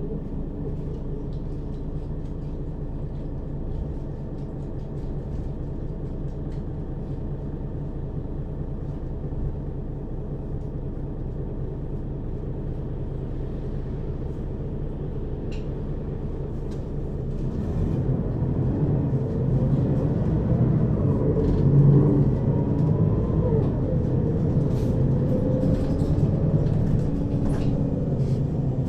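Mercedes-Benz Citaro (O 530) city bus with a ZF Ecomat 2 6HP-592 C automatic gearbox, heard from inside above the second axle. The engine runs steadily at low revs, then about 17 seconds in grows louder as the bus accelerates, with rising pitch from the engine and driveline.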